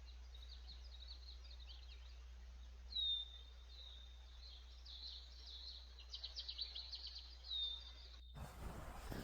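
Small birds calling in forest. There are single clear whistled notes that drop sharply and then level off, about three seconds in, again a second later and again near the end, with quick runs of chirps in between, over a faint steady hiss. Near the end this cuts off abruptly into a rush of wind noise.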